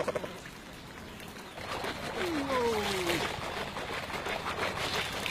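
Water splashing and trickling around the fishing raft. From about two seconds in, fishermen call out to their cormorants in long falling cries to urge the birds to dive.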